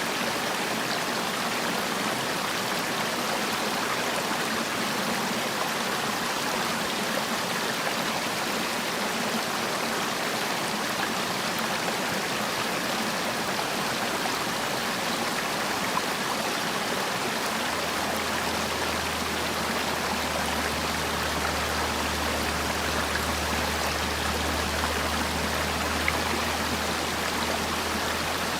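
Mountain valley stream, water rushing over rocks with a steady, even flow. A low hum joins in a little past the middle.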